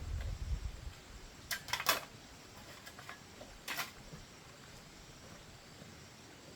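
A low rumble in the first second, then a few short, sharp knocks about one and a half to two seconds in and once more near four seconds.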